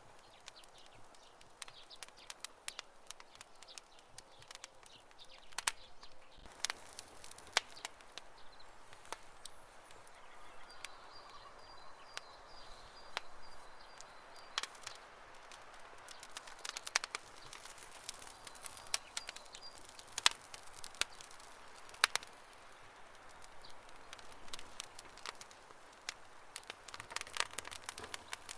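Wood campfire crackling: irregular sharp snaps and pops over a soft hiss of burning, with a faint high chirping in the middle stretch.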